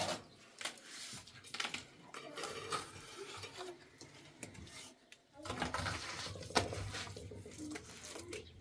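Scattered clinks, knocks and scrapes of hard objects being handled, like pots and utensils, with a quieter gap about halfway through.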